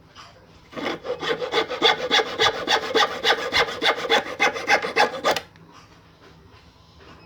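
Hacksaw cutting through wood in quick, even back-and-forth strokes for about four and a half seconds, then stopping.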